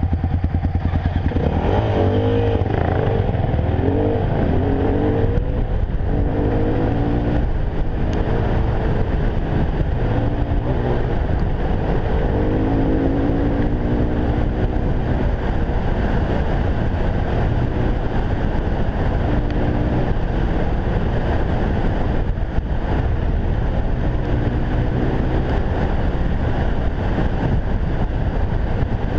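Enduro motorcycle engine running under way, the revs rising and falling over and over as the rider works the throttle on a rough track, with steady wind and ride noise underneath.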